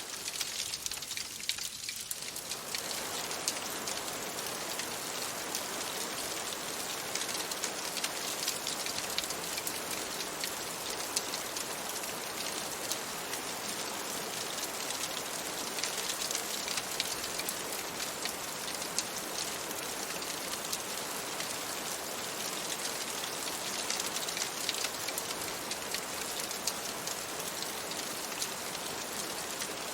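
Steady rain pattering on a surface: a dense, even hiss of drops with many fine ticks.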